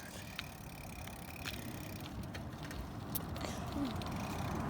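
Steady rumbling noise of riding a bicycle, wind and tyre noise on the phone microphone, with a few light clicks; it grows gradually louder toward the end.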